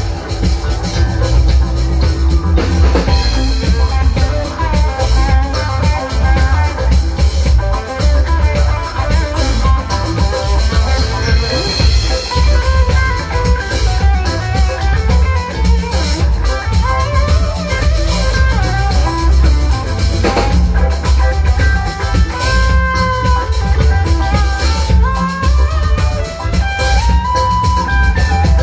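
A band playing live: drum kit, a steady heavy bass line and guitar, without a break.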